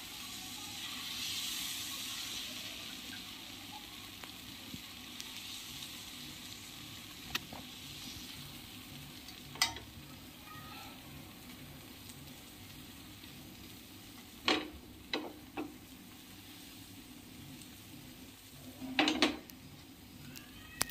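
Thin rava dosa batter sizzling on a hot tawa as it is poured and spread. The hiss is loudest in the first few seconds and slowly dies down as the batter sets. A few short clicks come through the middle and near the end.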